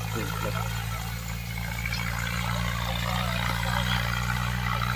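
Tractor diesel engine idling steadily, a low even hum.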